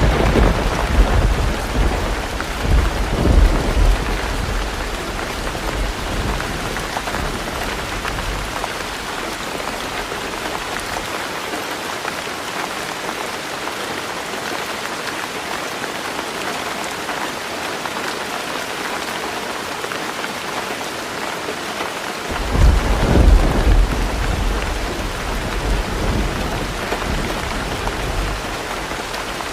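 Heavy rain drumming steadily on a tin roof, with two rolls of thunder: one rumbling at the start and dying away over about eight seconds, another breaking about two-thirds of the way through.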